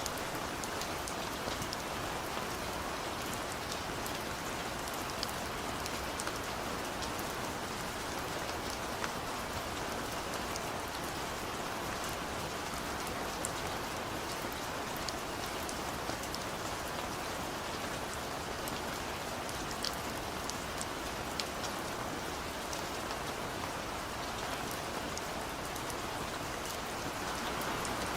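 Steady rain falling, an even hiss with many small drop ticks spread through it.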